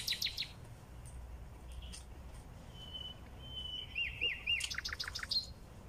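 Songbirds chirping: a quick series of chirps at the start, a thin whistled note around the middle, then a few looping notes and a fast trill near the end.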